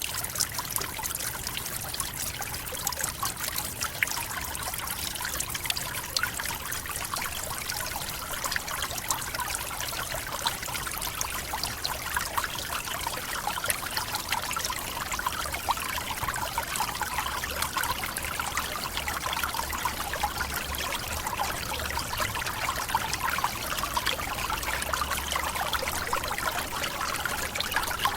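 Forest waterfall: steady splashing and trickling of falling water.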